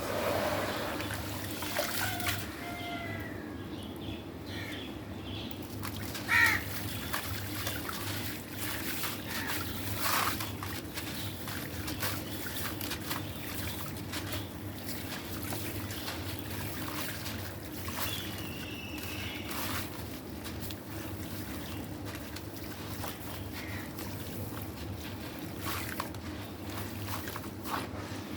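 Crumbly black stone breaking up in water: trickling and sloshing with many small crackles and sharp cracks, and one louder sudden crack about six and a half seconds in.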